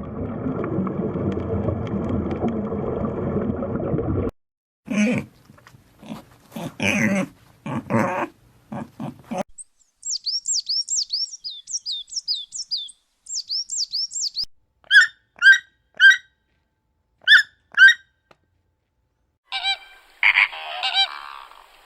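A run of different animal calls, one after another: a rough, noisy call for about the first four seconds, then several honking calls, a quick series of high falling chirps, and five sharp, short calls near the end.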